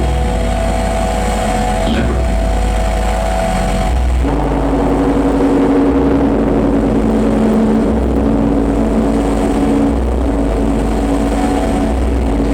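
Live noise music: dense layered electronic drones over a low, throbbing bass pulse. About four seconds in, the texture shifts and a new, lower droning tone takes over.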